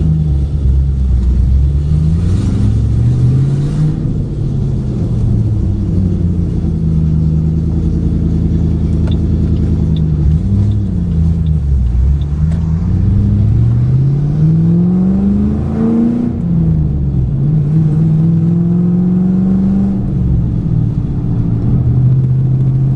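2008 Ford Mustang GT's 4.6-litre three-valve V8 running under way, its pitch climbing and dropping several times as it accelerates and eases off. The engine is misfiring, with five bad coil packs according to the dealer.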